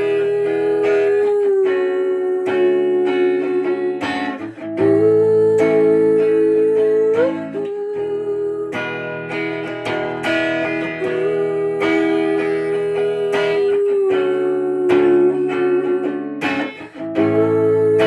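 An instrumental guitar passage: chords strummed and plucked, under a long held melody note that slides upward at the end of each phrase.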